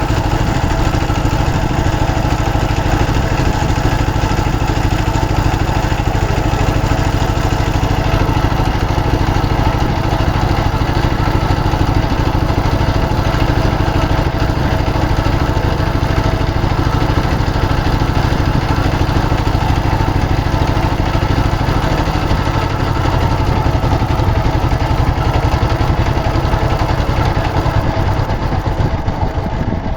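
Motorised river boat's engine running steadily, a constant loud engine drone, its low note shifting slightly about two-thirds of the way through.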